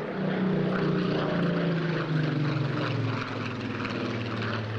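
Rolls-Royce Griffon V12 engine of a Supermarine Spitfire PR XIX flying past, its pitch falling steadily as the aircraft goes by.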